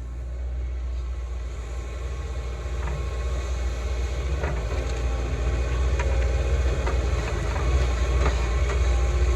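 Heavy equipment's diesel engine running with a deep rumble that grows louder, with irregular metallic clanks and rattles.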